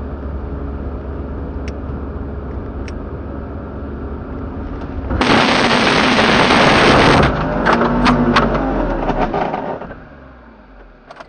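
Car engine running steadily, then a sudden loud rush of noise about five seconds in that lasts about two seconds, followed by scattered knocks and rattles that fade.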